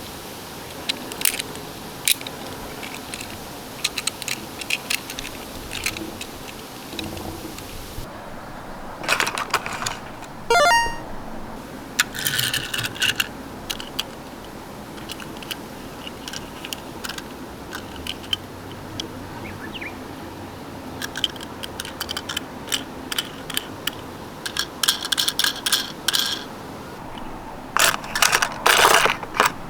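Small die-cast toy cars and a plastic toy truck being handled: scattered clicks, clacks and short scraping rattles. The clatter is busiest a third of the way in and again near the end.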